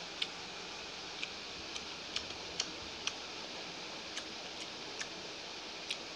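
Close-up eating sounds: short, sharp mouth clicks and smacks while chewing mutton eaten by hand, about ten at irregular intervals, over a steady background hiss.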